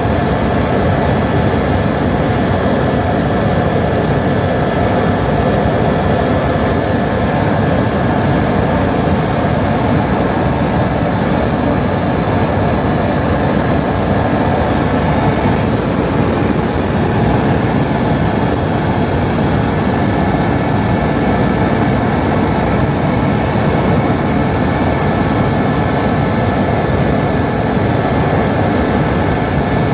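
Helicopter in flight: a steady engine and rotor noise with a faint, high, even whine.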